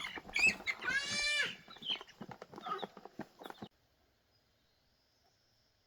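Animal calls: short calls and clicks, with one long, clearly pitched call about a second in. The sound cuts off suddenly about two-thirds of the way through, leaving silence.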